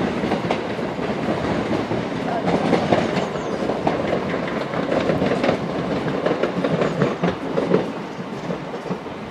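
Class 375 Electrostar electric multiple unit running away down the line, its wheels clicking over rail joints and points, the sound slowly fading near the end.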